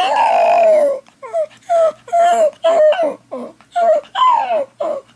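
Dog crying and howling: one long call that falls in pitch, then a string of short high whines, two or three a second. This is the distress howling the dog does when its owner is away.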